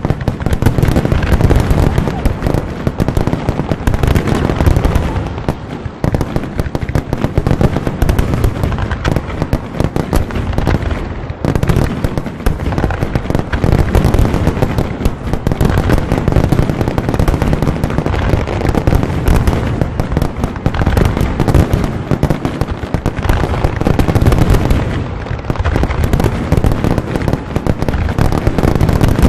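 Fireworks finale: a dense, unbroken barrage of shell bursts and bangs, many overlapping at once, with heavy low booms throughout.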